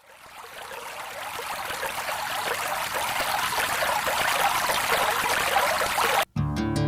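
Steady running water fading in, then cutting off abruptly near the end as acoustic guitar music begins.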